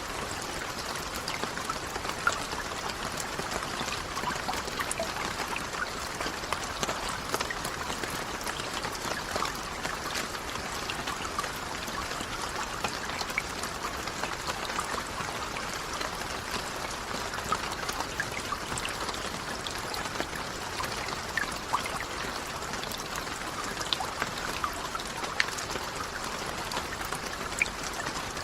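Steady rain: an even hiss of water with many separate drops ticking through it.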